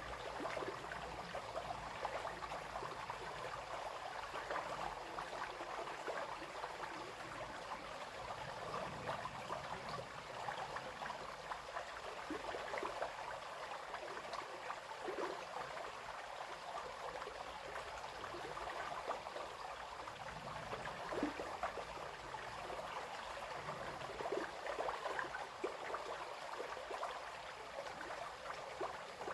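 A small brook flowing steadily over stones, a continuous babble with many little splashes and gurgles.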